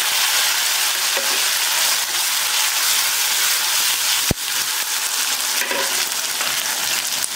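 Chopped tomato frying in hot sesame oil in a kadai: a steady sizzle, with a wooden spoon stirring it around the pan. One sharp click about four seconds in.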